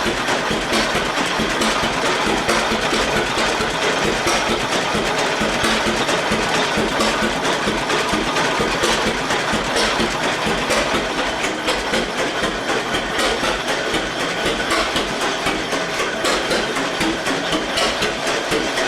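1919 Eagle 12-22 tractor's two-cylinder engine running steadily with a fast, even beat.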